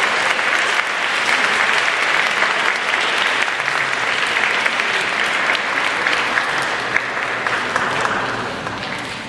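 An audience clapping in a sustained round of applause. It holds steady and then tapers off near the end.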